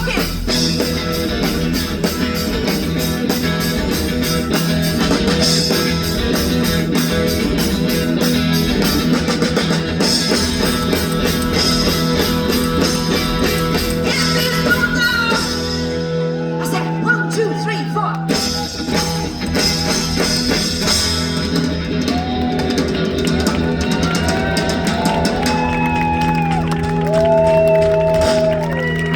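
Live band playing rock music with drums, guitar and a singer, recorded from the audience. About halfway through the drums drop out and the vocal carries on over the band.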